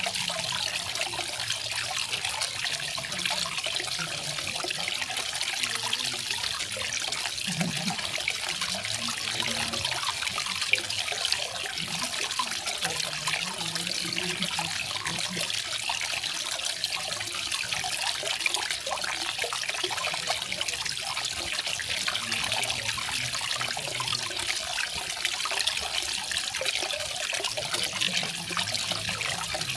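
A small garden waterfall, water falling and splashing steadily: a bright, even hiss with scattered lower splashes.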